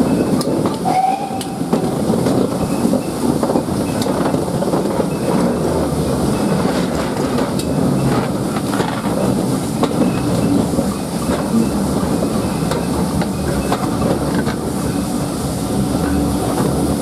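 Heritage train in motion behind a GWR Prairie steam tank engine: a steady rumble of wheels on the rails with scattered rail-joint clicks, and a brief high note about a second in.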